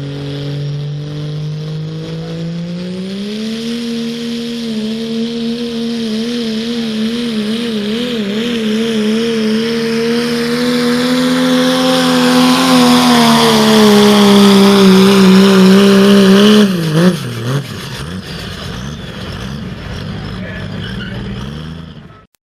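Diesel pickup truck engine at full throttle in a truck pull. Its revs climb a few seconds in and waver up and down while held high, then sag as the load builds. About seventeen seconds in the throttle drops off sharply to a lower, steady run.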